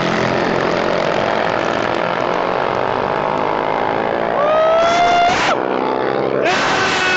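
Small-displacement minibike engines running at full throttle in a drag race, with their pitch climbing sharply and then cutting off twice.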